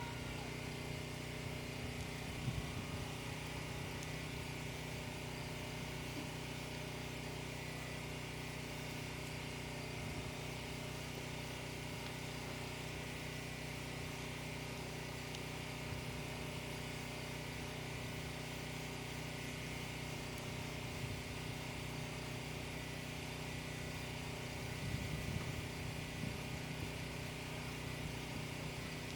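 An engine running steadily at one unchanging speed, with a few light knocks about two seconds in and again near the end.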